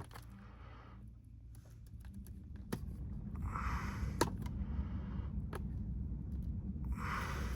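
Scattered light clicks and rustling from hands handling PEX pipe and its plastic fittings, with a low rumble that builds from about three seconds in.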